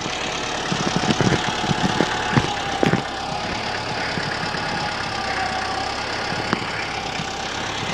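Large tractor engine running steadily while it works snow, with a few short knocks and clunks in the first few seconds.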